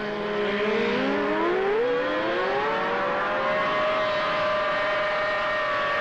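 A field of racing outboard motors accelerating off a massed start. Several engine notes rise in pitch together over the first few seconds, then hold steady at speed.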